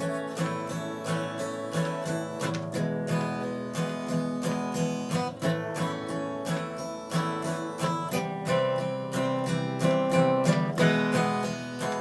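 Acoustic guitar strummed in a steady rhythm, an instrumental break in a song, with a chord change about eight seconds in.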